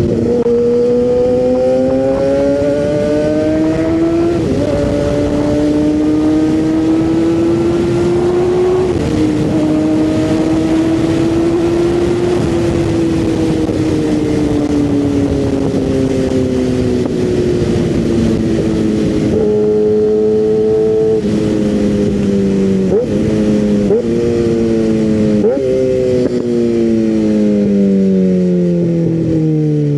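600 cc sport bike engine under way: revs climb and drop back twice in the first ten seconds as it shifts up, hold fairly steady for a long stretch, then several quick throttle blips in the second half before the revs fall away as the bike slows. Wind noise runs underneath.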